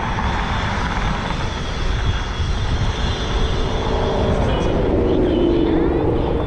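Steady wind rumble on an action camera's microphone while cycling at about 10–12 mph.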